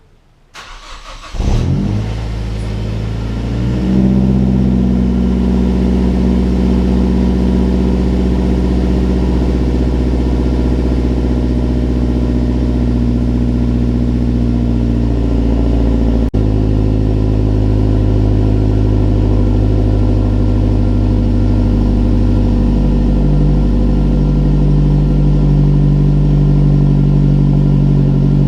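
Mazdaspeed3's turbocharged 2.3-litre four-cylinder engine cold-started: it cranks, catches about a second in, and settles into a steady, raised cold idle that holds for the rest of the time.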